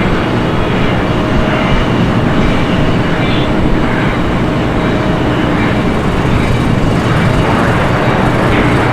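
Steady, loud rumbling noise of a large vehicle running without a break.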